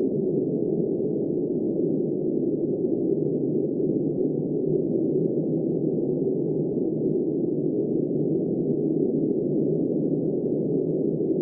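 Blizzard wind blowing steadily, a dull, muffled rush with no high hiss and no distinct gusts.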